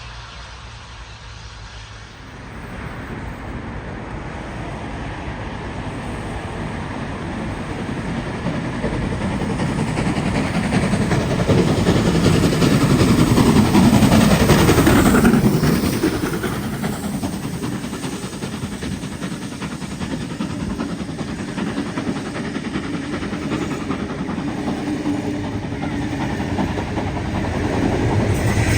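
A train passing close by: its running noise builds, peaks with a drop in pitch about halfway through as it goes past, then carries on as a steady rumble of wheels on the rails.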